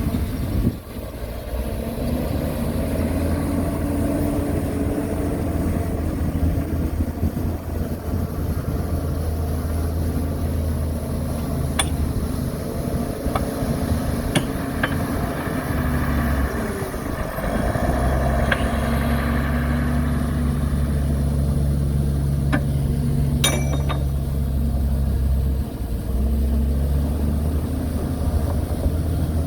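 Heavy diesel construction machinery running, a deep steady engine drone whose note shifts and grows louder about halfway through, with a few sharp metallic clanks scattered through the middle.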